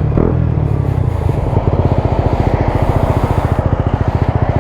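Suzuki GSX-S 125's single-cylinder engine through a Mivv GP Pro exhaust, running steadily and then dropping to idle about a second in, where it putters with evenly spaced exhaust pulses.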